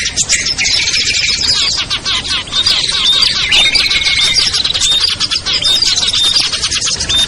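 Dense chorus of many small songbirds chirping and trilling at once, with rapid overlapping notes and short repeated whistles throughout. It is a mixed lure recording of small birds, used to call down wild birds for trapping.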